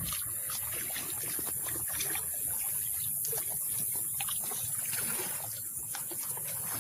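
Small waves lapping and trickling at a lake's edge, a steady wash of water with many small splashes, under a constant high hiss.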